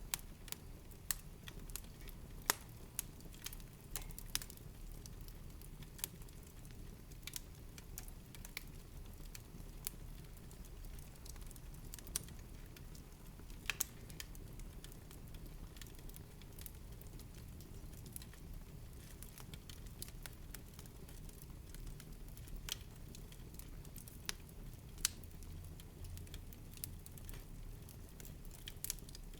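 Wood fire crackling in a fireplace: irregular sharp pops and snaps, a few loud ones among many small ones, over a steady low rumble of burning.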